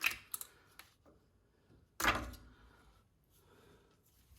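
Metal parts being worked inside a Chrysler 8.25 rear differential while the axle is shifted to free its C-clips: a few light clicks, then about two seconds in one louder clunk that rings off briefly.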